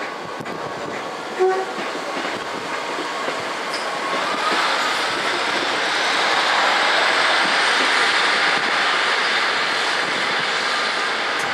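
A train passing along the tracks: a rushing rail noise that builds from about four seconds in and stays loud. A brief horn toot sounds about a second and a half in.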